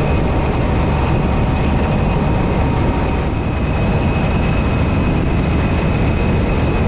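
Motorcycle riding at road speed: steady wind rush over the microphone with the engine running underneath.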